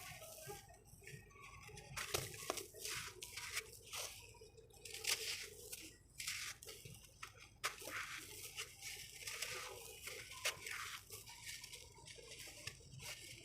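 Dry crust of red sand crumbling and being crushed, an irregular run of crunches and gritty crackles, the loudest about five seconds in.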